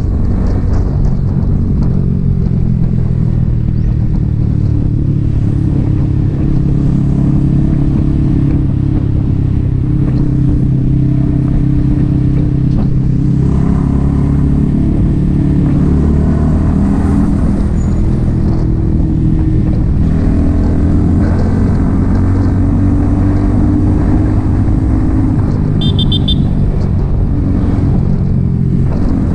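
Yamaha XSR 155's single-cylinder 155 cc engine, breathing through an aftermarket M4 exhaust, running steadily while riding, its engine speed shifting a little now and then.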